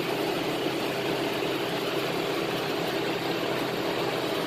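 Car engine idling steadily with an even hum, no revving or knocks.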